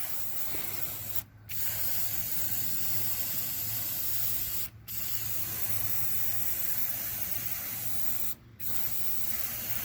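Degreaser being sprayed onto a dirty lawnmower air intake hose: a steady hiss in long bursts, broken by three brief pauses.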